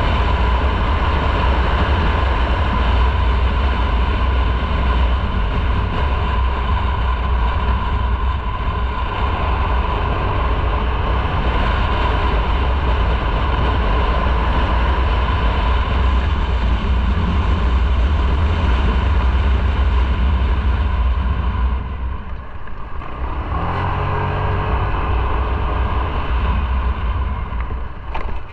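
Motorcycle riding on the road: a steady rush of wind on the microphone with the engine running underneath. About 22 seconds in the wind noise drops and the engine's note comes through more plainly.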